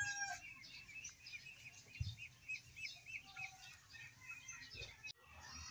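Small birds chirping faintly: a quick run of short, evenly repeated chirps, then scattered calls. A soft low thump about two seconds in.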